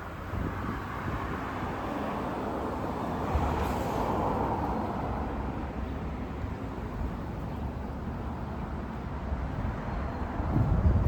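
Road traffic: cars passing on the street, one swelling up about four seconds in and another near the end, over a steady traffic hum.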